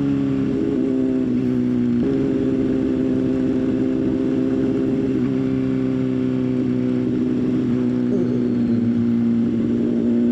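Motorcycle engine running under way at road speed, with a small drop in pitch about two seconds in, a slow fall through the middle, and a rise again near the end as the throttle opens.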